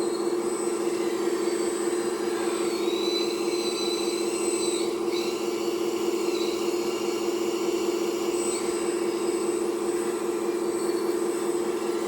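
Hydraulic pump of an RC model excavator running with a steady electric hum, with higher whines that shift in pitch as the hydraulics are worked between about two and nine seconds in.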